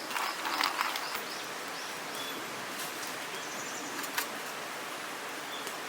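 Hand coffee mill grinding beans, a steady grinding noise, with a few faint bird chirps.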